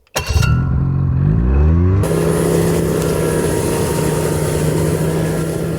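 Snowmobile engine revving up, its pitch rising over the first two seconds, then running steadily at a constant pitch with a broad hiss over it.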